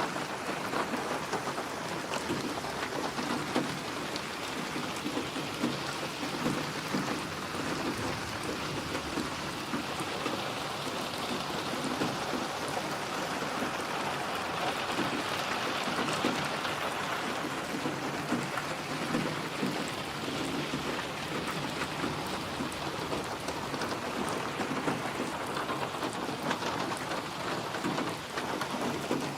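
Steady rain falling, drops pattering on surfaces, with a rumble of thunder swelling and fading about midway.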